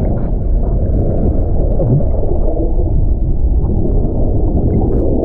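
Muffled, deep rumble of churning water heard from underwater beneath a waterfall, with the high end cut off by the water and the camera housing.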